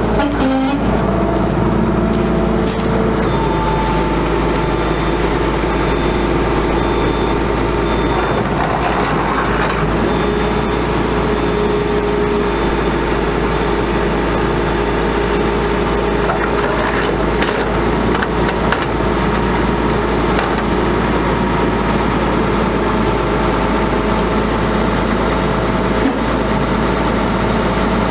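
The Caterpillar C7 diesel engine of a Ford F750 bucket truck running steadily, with steady tones in the sound that change pitch a few times.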